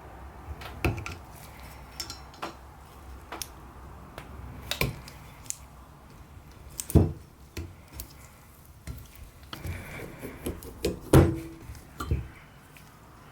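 Metal parts of an old brass blowtorch clinking and knocking as they are handled on a work surface: irregular taps and clicks, with two louder knocks about 7 and 11 seconds in.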